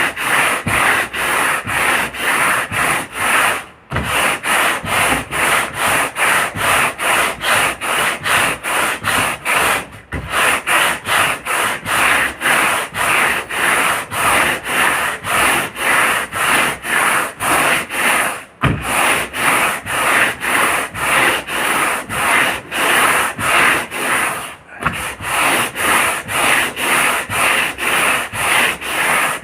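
Boat hull being rubbed down by hand in quick, even back-and-forth strokes, about three a second, as in sanding or polishing the surface before gelcoat. The strokes stop briefly four times and pick up again.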